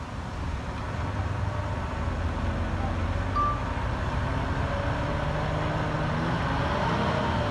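Heavy diesel engine of earthmoving machinery running and building up over the first second, its pitch shifting as it works under load. A single short, high beep sounds about three and a half seconds in.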